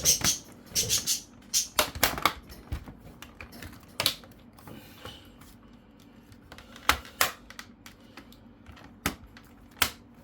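Plastic clicks and taps from handling a laptop's casing and internal parts during reassembly: a quick run of clicks in the first second or so, then scattered single clicks.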